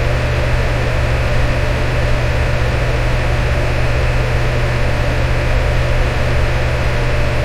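Electric fan running steadily: a constant whooshing air noise over a low hum, with no change in speed.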